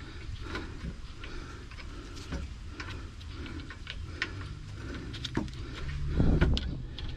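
Scattered light metallic clicks and taps from handling sway bar parts and bolts while lining up the rear sway bar, over a steady low hum. A louder low sound comes about six seconds in.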